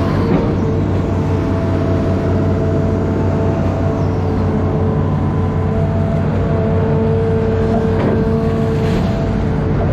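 Amphibious excavator's diesel engine running steadily under work, with a steady higher whine over the engine note.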